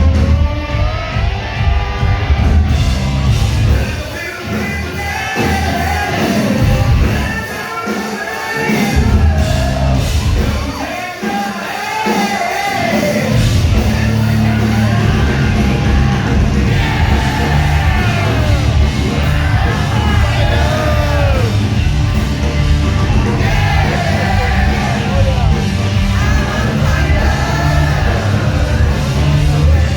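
Live rock music with a lead singer over a full band. The heavy low end drops away for several seconds about four seconds in, then the full band comes back in.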